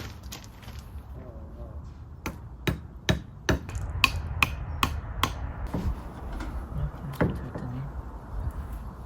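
A hammer driving tent pegs: a run of about eight sharp knocks, two or three a second, with one more a little later.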